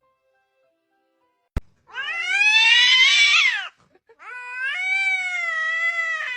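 A domestic cat giving two long, drawn-out meows, the first rising and then falling in pitch, the second held fairly level. A single sharp click comes just before them.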